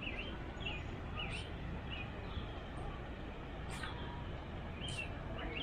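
Small birds chirping: many short, repeated chirps, with a few sharper, higher calls, over a steady low background rumble.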